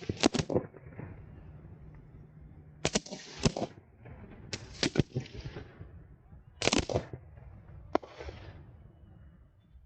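Fireworks going off: sharp bangs in quick groups of one to three, about every second or two, each followed by a short echoing tail.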